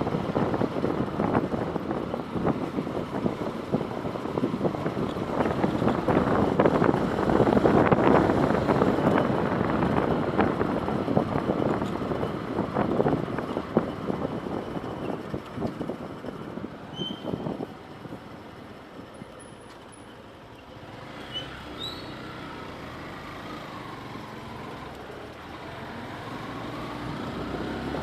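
Street traffic noise, a motor vehicle passing that swells to its loudest about eight seconds in and then fades, with things quieter after about eighteen seconds.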